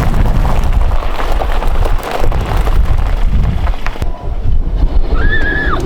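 Heavy wind buffeting the microphone: a loud, low rush with no steady tone. A short high tone sounds briefly near the end.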